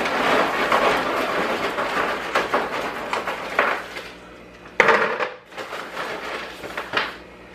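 Loose lava rock rattling and grinding together as it is rummaged through by hand, with a sudden louder clatter about five seconds in and a few sharp clicks near the end.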